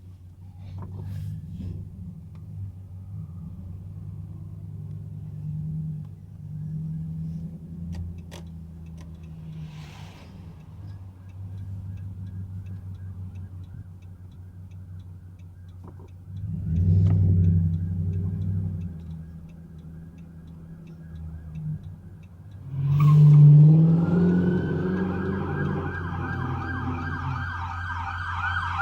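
Low, steady car engine and road noise, with a loud surge of engine noise about 23 seconds in. From then on a police siren wails in fast, repeating rises and falls, loud near the end.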